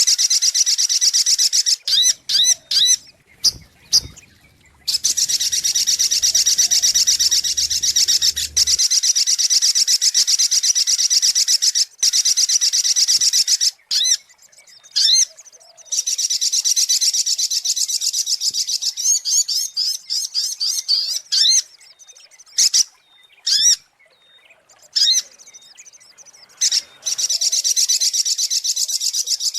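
Spiderhunter (sogok ontong) song played as a lure call: long runs of rapid, high-pitched repeated chips lasting several seconds each, broken by short pauses and a few brief single notes.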